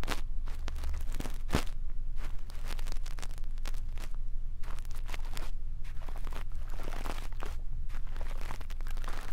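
Brush bristles scratching and sweeping over a microphone for ear-cleaning ASMR: a run of irregular, crackly scratching strokes over a steady low hum.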